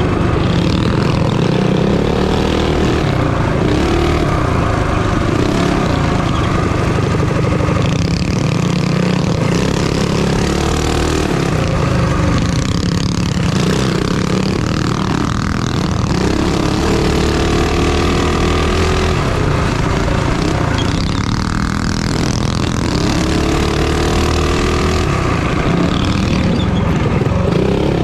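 Minibike engine running hard in a race, its pitch rising and falling repeatedly as the throttle is worked.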